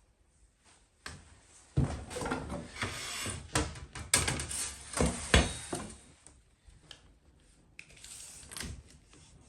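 Irregular wooden knocks and clatter with some scraping, as wooden parts are handled and set down, loudest about two and five seconds in, with a few lighter knocks near the end.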